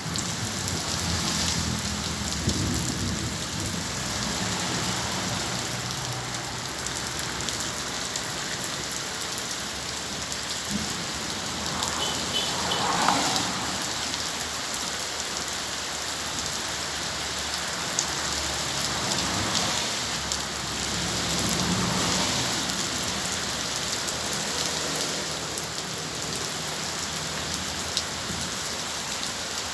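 Heavy rain falling steadily, with low rumbles of thunder near the start and again about two-thirds of the way in.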